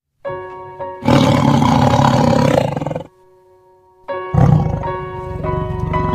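A tiger roaring over background music: one long roar about a second in, then after a short break another loud, lower roar that runs on.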